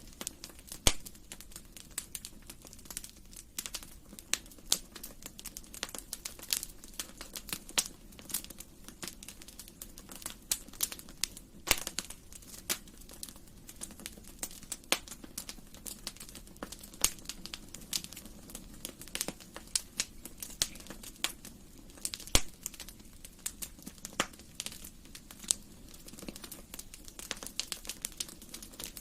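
Wood fire crackling in a fireplace: irregular sharp pops and snaps, several a second, with a few louder pops about a second in, near the middle and about three-quarters of the way through.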